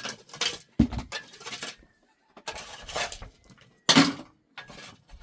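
Irregular clattering and knocking of hard objects, with loud knocks just before one second in and about four seconds in.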